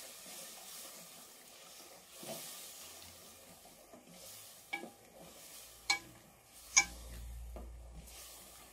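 Tomato and spice masala frying faintly in oil in an aluminium pressure cooker while a wooden spoon stirs it, with three sharp knocks of the spoon against the pot, about a second apart, in the second half.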